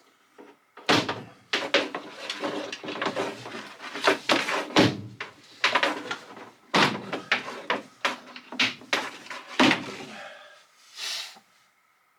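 A run of sharp knocks and clatters, with rough scraping and rattling between them, from hands-on work teeing a fitting into pipework. A short hiss comes near the end.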